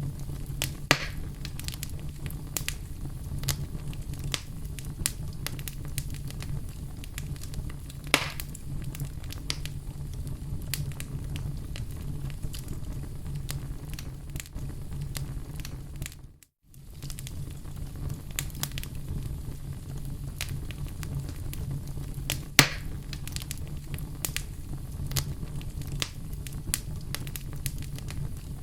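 Wood fire in a fireplace crackling steadily over a low, even rumble, with many small snaps and a few louder pops. About halfway through the sound dips out to silence for a moment, then resumes.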